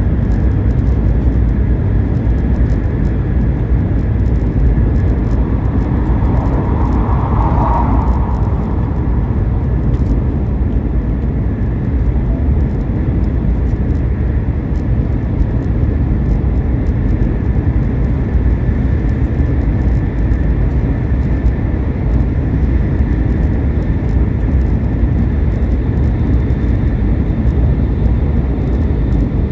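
Steady rumble and rush of a Shinkansen bullet train running at speed, heard from inside the carriage.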